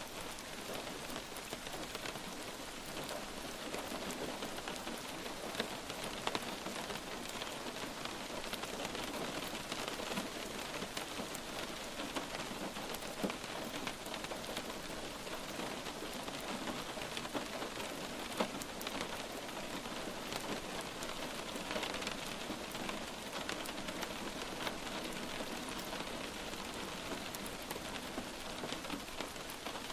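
Steady light rain falling, with a dense patter of individual drops hitting a surface.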